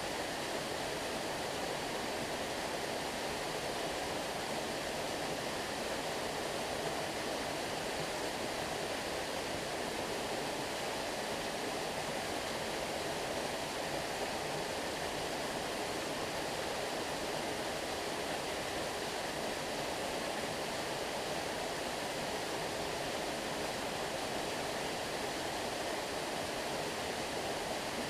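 Flowing stream rushing steadily, an even wash of water sound without breaks or changes.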